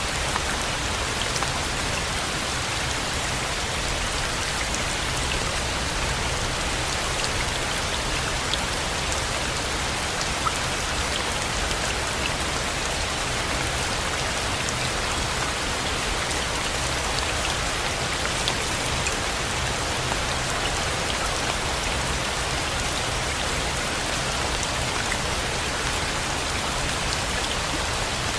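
Steady rain falling, an even hiss with small scattered drop ticks and a low rumble underneath.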